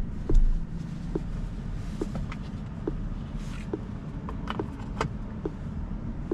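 Road and tyre noise inside the cabin of a 2023 Rivian R1S Quad Motor electric SUV on the move: a steady low rumble with scattered light clicks and a brief hiss about three and a half seconds in.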